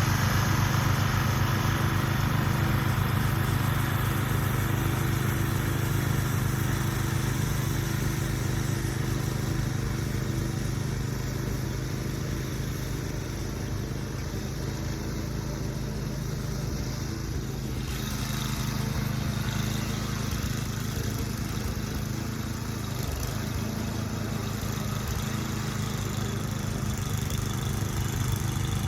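An engine running steadily at a constant speed, a low drone that eases off a little midway and picks up again near the end.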